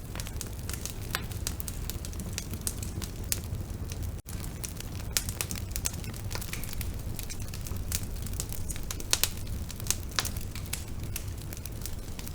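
Bonfire burning: a dense, irregular crackle of popping wood over a steady low rumble of flames. The sound cuts out for a split second about four seconds in.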